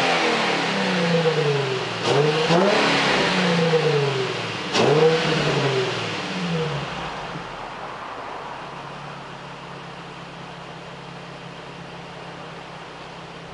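2006 Nissan 350Z's 3.5-litre VQ35DE V6 revved through its stock mufflers, with an aftermarket Y-pipe and cold air intake fitted: two quick rev blips, about two seconds and five seconds in, each rising and falling back. It then settles to a steady idle that slowly grows fainter.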